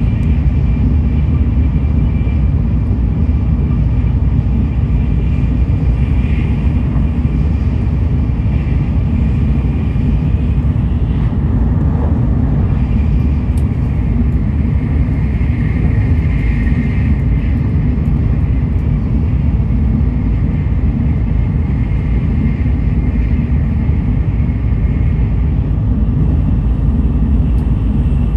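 Tokaido Shinkansen Nozomi train running at speed, heard from inside the passenger car: a steady low rumble of wheels and running gear, with a faint high whine that fades in and out.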